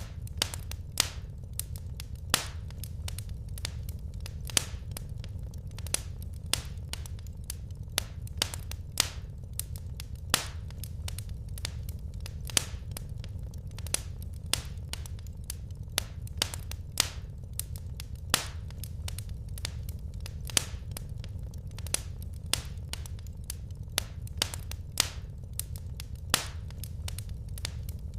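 Wood fire crackling in a fireplace: irregular sharp pops and snaps from the burning logs, several a second, some louder than others, over a steady low rumble of the flames.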